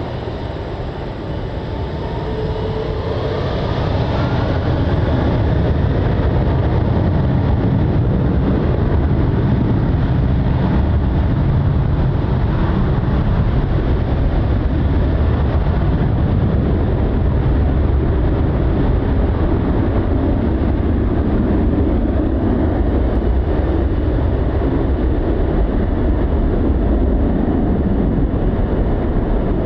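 Airbus A330-300 jet engines at takeoff thrust: a loud, steady rumble that swells over the first five seconds and then holds.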